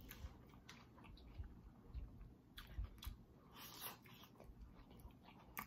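Faint close-miked chewing of fried escovitch red snapper, with a few short sharp mouth clicks and smacks, the clearest about halfway through and near the end.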